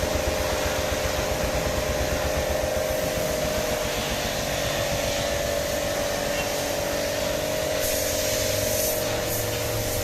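Electric car-wash pressure washer running steadily with a constant motor whine, its water jet spraying.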